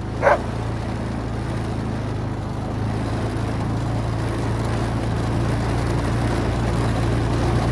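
Quad (ATV) engine running steadily and slowly getting louder as it drives on through snow. A dog gives one bark just at the start.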